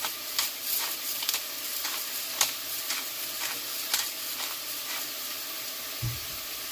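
Onions, mushrooms and garlic sizzling steadily in melted butter in a pot, with a few sharp clicks of a utensil stirring against the pot and a dull knock near the end.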